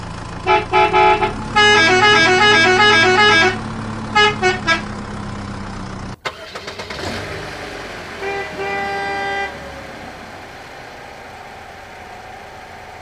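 Vehicle horn honking over a steady low engine hum: a few short honks, then a quick alternating two-pitch horn tune, then three short honks. After a sudden break about six seconds in comes a falling glide and one longer honk.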